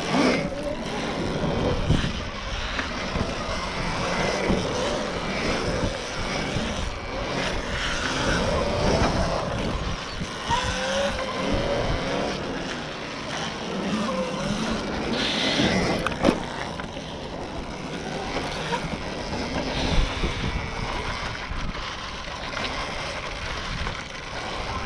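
Electric dirt bike riding around a skate park, its motor whine rising and falling as it speeds up and slows, over wind and tyre noise, with a couple of sharp knocks partway through.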